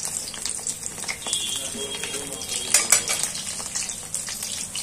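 Besan-coated stuffed green chillies deep-frying in hot oil in a metal kadhai, a steady sizzle full of small crackles. A metal slotted spoon stirs them and clicks against the pan, sharpest about three seconds in.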